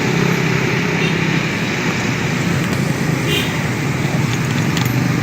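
Motor vehicle engine running at a steady low speed, with road and traffic noise all round; the engine hum eases off about two seconds in and picks up again near the end.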